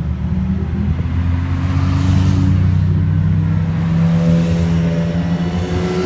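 Car engines on a street: one engine's deep note holds steady and then climbs gently in the second half as the car accelerates, over the noise of passing traffic.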